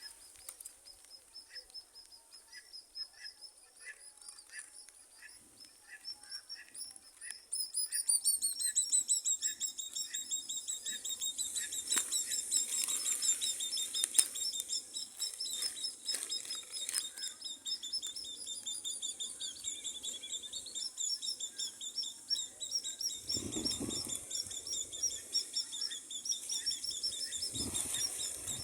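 Baby bird calling: a slow series of faint high peeps, then, from about a quarter of the way in, a loud, fast, high-pitched run of chirps that keeps going. Two dull bumps are heard near the end.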